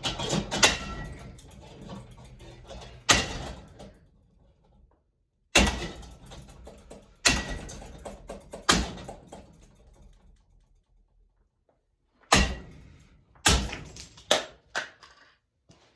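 A cheap mini vortex ceiling fan being smashed apart: about nine hard knocks and clanks at uneven intervals, some leaving a short metallic ring. Four of the hits come in the last few seconds.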